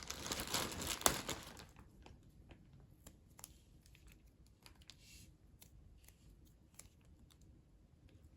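Tissue paper crinkling and rustling for about the first second and a half, with one sharp click about a second in, then scattered light clicks and faint rustles of paper and tape being handled.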